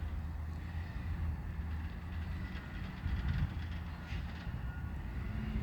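Diesel engine of a Waste Management recycling truck running with a steady low rumble.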